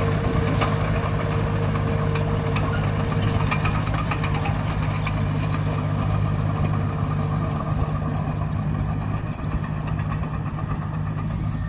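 Heavy earthmoving-machine engine running steadily, with scattered clanks and rattles.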